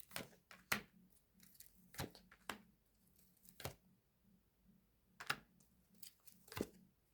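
Tarot cards being handled and laid down: faint, scattered soft snaps and taps of card stock, about seven at uneven intervals with short pauses between.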